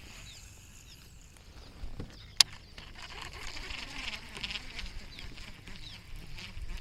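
Outdoor chorus of high, short chirps and trills, with one sharp click about two and a half seconds in.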